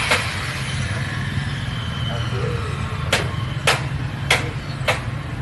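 Four sharp knocks, evenly spaced a little over half a second apart, over a steady low engine-like rumble.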